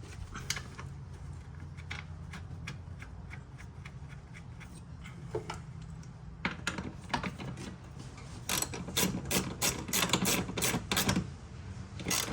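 Hand tools working on the fuel filter's fittings: scattered metal clicks, then a quick run of clicks in the second half, over a steady low hum.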